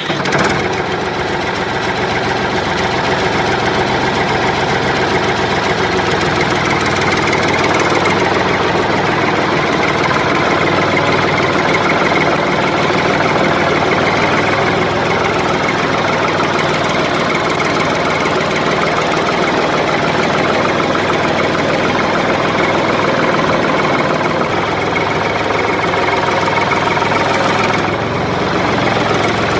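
An engine running steadily at an even pace, cutting in abruptly at the start.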